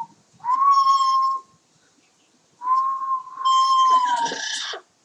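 Double yellow-headed Amazon parrot whistling: two long notes held at one pitch, the second longer and dipping at its end, with a raspy edge.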